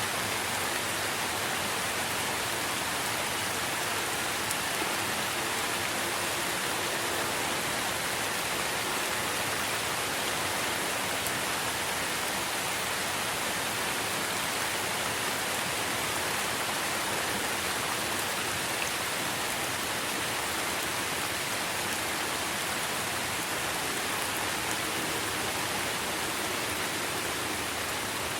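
Steady rain falling on tree foliage, an even unbroken hiss with no thunder.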